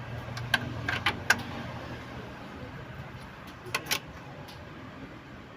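Sharp metallic clicks and clinks of hand tools and engine parts being handled during throttle body work, about five in all, two pairs close together, over a faint steady low hum that fades about two seconds in.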